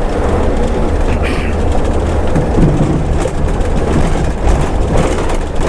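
Scania's diesel engine running under steady cruise, with road and tyre noise, heard from inside the cab as a steady low rumble.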